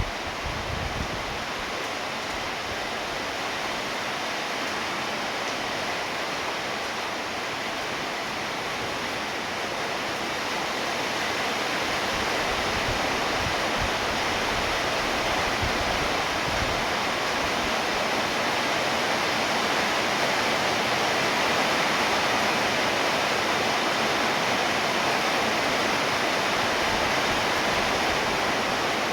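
Steady rainfall: a dense, even hiss of falling rain that grows a little louder about ten seconds in.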